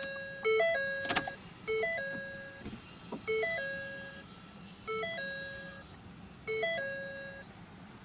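Electronic dashboard warning chime of a 2012 Ford: a three-note tone, low, high, then a held middle note that fades, repeating about every one and a half seconds, five times, as the ignition is switched on. A short click about a second in.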